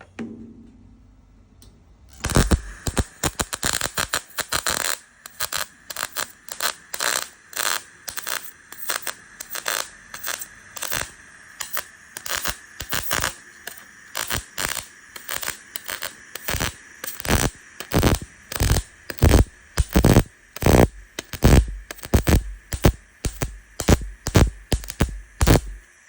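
Welding on the car's sheet-metal partition panel: a welder fired in short crackling bursts about twice a second, stitch-welding the panel. It starts about two seconds in and gets louder in the second half.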